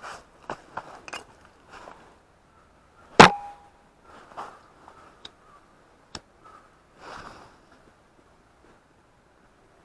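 Metal camp gear being handled: scattered light clicks and knocks, with one sharp metallic clank about three seconds in that rings briefly.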